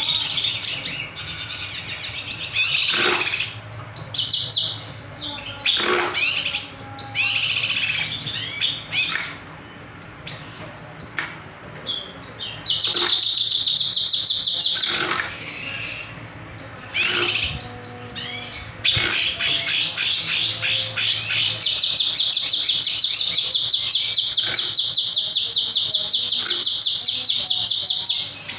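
Kinoy songbird singing continuously: a fast run of sharp chirps and quick sweeping notes, then long rapid trills held for several seconds, the longest running through the last third.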